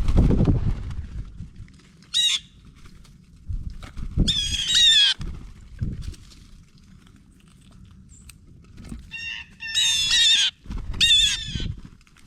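Blue jays giving harsh, squawking calls in four bursts, the longest lasting about a second. Low rumbles, the loudest right at the start, come between and under the calls.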